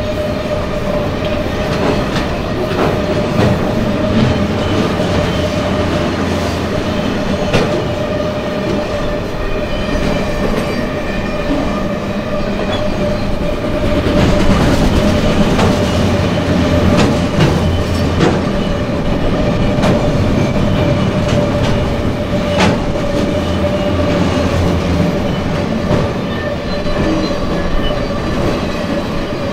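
Freight train of enclosed autorack cars rolling past at steady speed: a continuous rumble of steel wheels on rail, with scattered sharp clanks and a steady whining tone running through it.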